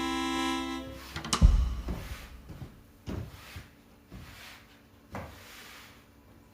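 Background music with held sustained notes stops about a second in. Then comes a loud thump, followed by a few lighter, scattered knocks of things being handled.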